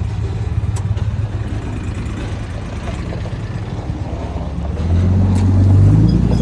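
A vehicle engine running steadily, then getting louder and rising in pitch about five seconds in, as it revs or accelerates.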